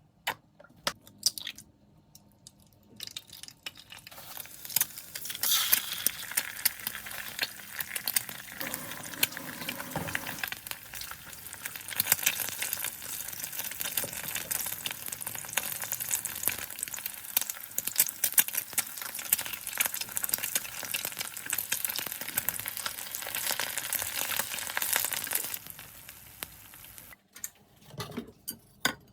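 Food sizzling and crackling in a hot frying pan, starting about four seconds in and cutting off abruptly a few seconds before the end. A few sharp clicks come before it and a couple of knocks follow near the end.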